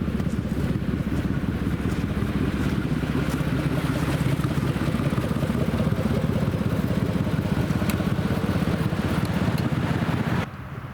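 Truck engine running hard, a steady low drone with fast even pulsing, which cuts off abruptly near the end.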